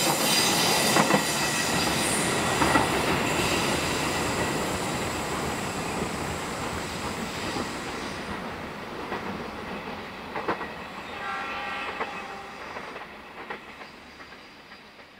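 KAI passenger train passing close by on ballasted track, wheels clattering over the rail joints, its noise fading steadily as it draws away. About eleven seconds in, a horn sounds for about a second.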